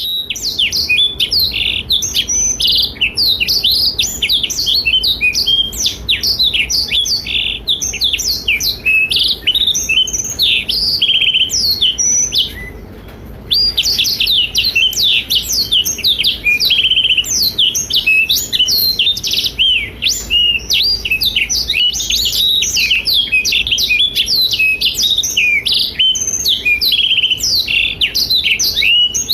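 Blackthroat (black-throated canary) singing in full voice: a long, fast, unbroken run of high twittering and trilled notes, with a pause of about a second a little before halfway before the song picks up again.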